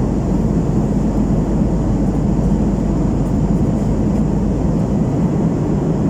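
Steady, deep cabin noise of an Airbus A321 jet airliner in flight: the even rush of its engines and the airflow over the fuselage, heard inside the passenger cabin.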